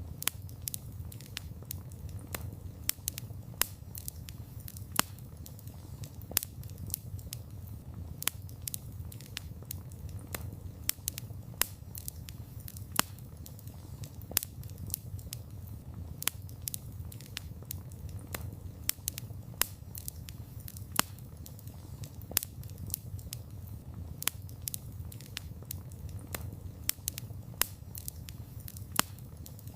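Wood fire burning: irregular sharp crackles and pops, several a second, some much louder than others, over a steady low rumble of the flames.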